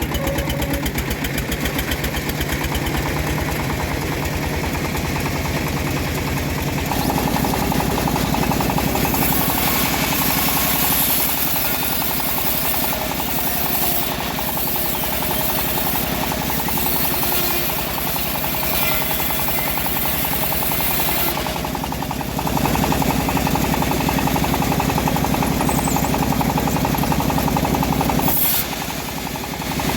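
Engine-driven homemade bandsaw mill running, with a rapid, even knocking pulse. The sound changes about a quarter of the way through and again about two-thirds through, and dips briefly near the end.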